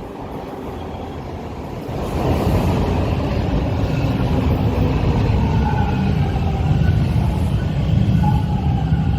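TTC subway train running in the station: a heavy low rumble of wheels on rails that grows louder about two seconds in. Faint whining tones of the traction motors come in over it from about halfway.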